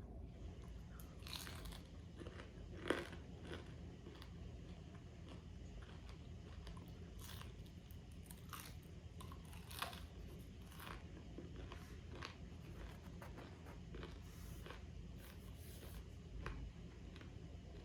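A person biting and chewing crispy bacon close to the microphone: scattered small crunches, with sharper bites about three seconds in and again near ten seconds.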